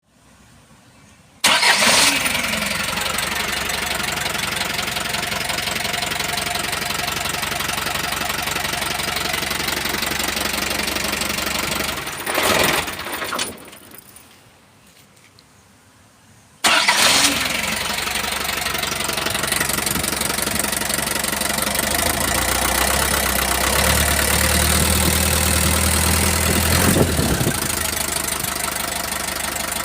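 Isuzu 4BE1 four-cylinder diesel engine starting about a second and a half in and running with the knock it is filmed for. It shuts off around 13 seconds, starts again about 17 seconds in, and runs on, louder and deeper for a stretch in the middle of this second run.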